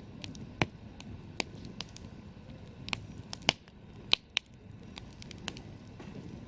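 Campfire crackling: irregular sharp pops and snaps from the burning wood over a low steady rumble of the flames, with a few louder pops in the middle.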